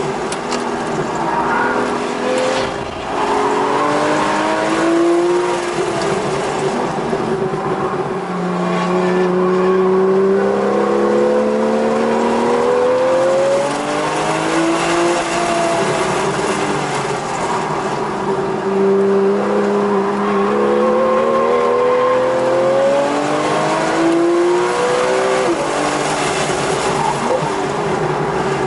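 Porsche 911 GTS (991.1) 3.8-litre flat-six engine under hard track driving, heard from inside the cabin. Its pitch climbs under acceleration and falls off several times, with a sharp drop near the end.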